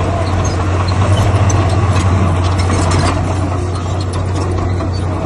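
Heavy diesel engine of earthmoving machinery running steadily, with a deep, constant low hum that eases slightly about three seconds in.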